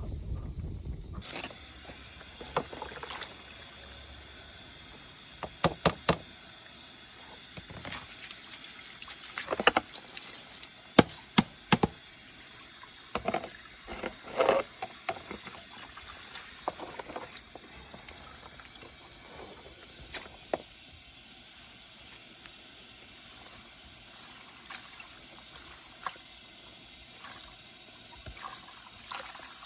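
Wood fire crackling, with sharp pops scattered over a steady hiss, most frequent in the first half; the pops sound like chestnuts bursting.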